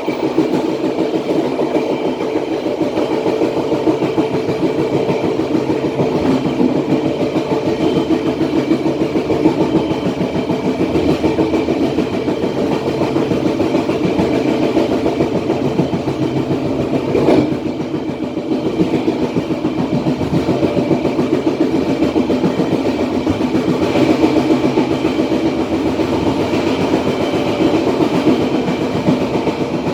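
Passenger train running along the track, a steady rumble of carriage wheels on the rails with a faint high ringing, heard from the rear of the train. A single sharp knock comes a little past halfway.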